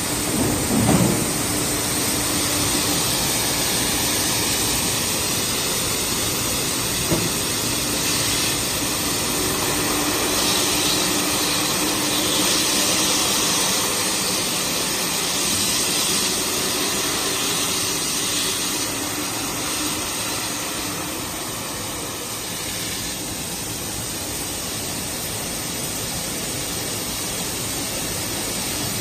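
Industrial crate washing machine running: a steady hiss of water spray with a low hum underneath. There is a knock about a second in and another short one about seven seconds in.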